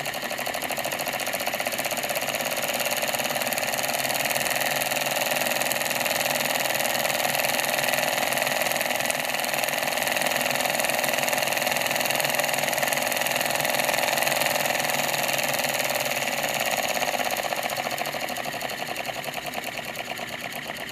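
Small USB-powered solenoid (electromagnetic piston) toy engine running fast, the solenoid pulling the piston with a rapid, even clatter like a sewing machine. It grows louder over the first few seconds and eases off again near the end.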